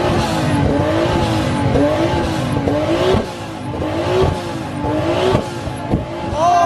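Modified car engine revving hard, its pitch climbing and then dropping sharply about once a second, with a sharp crack at several of the drops.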